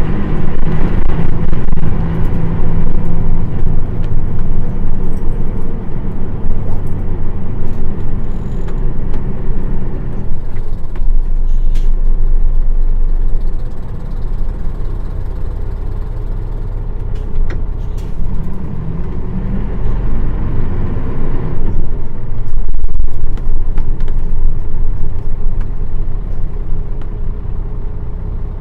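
Nissan Diesel PF6 inline-six diesel engine of a Nissan Diesel KL-UA452KAN city bus running under load. It eases off about ten seconds in, revs up again in a rising whine around twenty seconds, and settles lower near the end.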